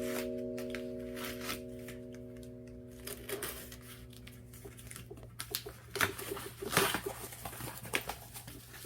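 A held musical chord fades out, then light rustling and small clicks of packaging being handled come and go.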